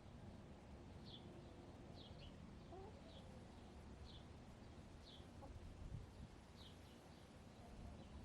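A wild bird repeating a short, high, falling chirp about once a second, faint, with a soft low call from a backyard hen about three seconds in.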